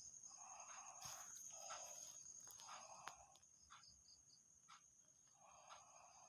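Faint, steady high-pitched trill like a cricket, with soft scratchy strokes every second or so.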